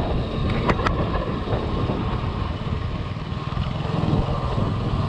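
Steady wind and road rumble of a motorcycle ride, with no engine note, as on an electric motorcycle. Two or three sharp clicks come just under a second in.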